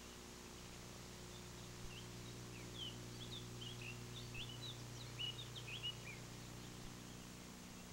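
Faint chirping of small birds, a flurry of short quick chirps that is thickest in the middle seconds, over a steady low hum.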